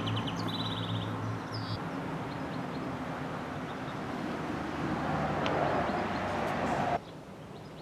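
Steady outdoor background noise, with a bird chirping in the first second or so; the noise cuts off suddenly about seven seconds in.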